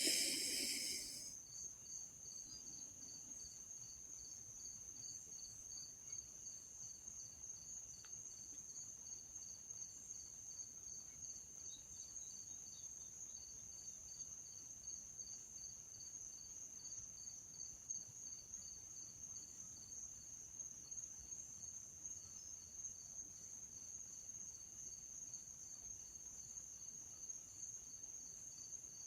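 Crickets chirping: a faint, steady high trill with a second, pulsing chirp repeating evenly just below it.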